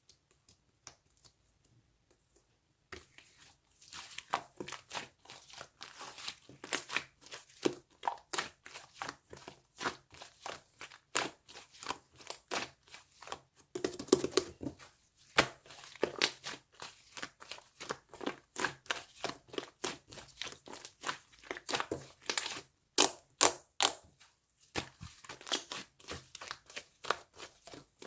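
Slime being squeezed and worked by hand, giving a dense, irregular run of sticky clicks and crackling pops that starts about three seconds in.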